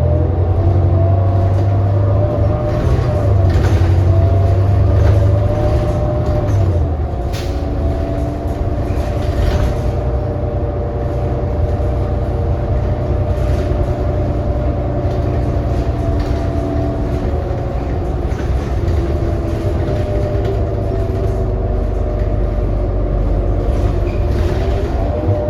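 Inside a 2018 New Flyer XD40 city bus on the move: the diesel engine and drivetrain drone, heavy for the first several seconds and then easing, under several steady whining tones. The whine is the odd, off-sounding noise this coach is known for.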